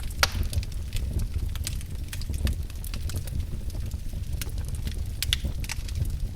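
Wood fire crackling in a fireplace: irregular sharp pops and snaps over a low steady rumble, with the loudest snap just after the start.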